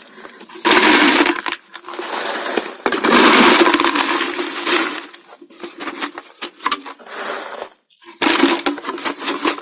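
Small stones being dropped and poured into a bottle, clattering and rattling against its sides in three main bursts with scattered clicks between.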